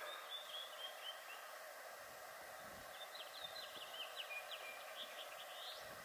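Faint birdsong over quiet outdoor ambience: a few short, high chirps near the start, then a longer quick series of chirps from about three seconds in that ends in a rising note.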